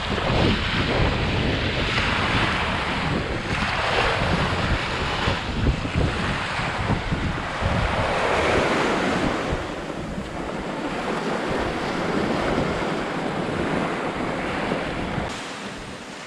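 Ocean surf breaking and washing up the beach in repeated swells, with wind buffeting the microphone as a low rumble that eases off near the end.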